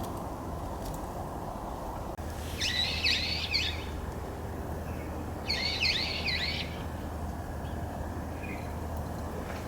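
A wild songbird calling in two bursts of rapid, high chirps, each about a second long and about three seconds apart.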